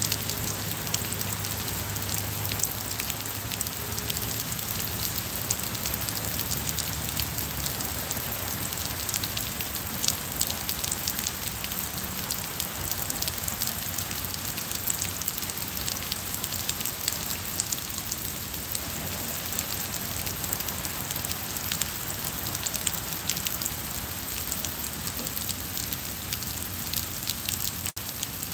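Steady rain falling on wet paving and plants, a constant hiss with many close drops ticking through it.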